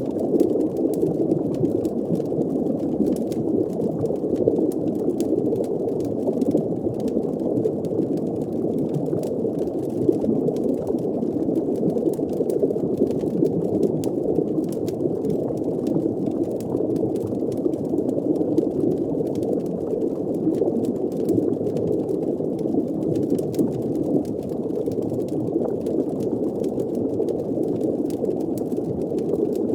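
Muffled underwater ambience: a steady low bubbling, gurgling wash with faint small crackles scattered through it.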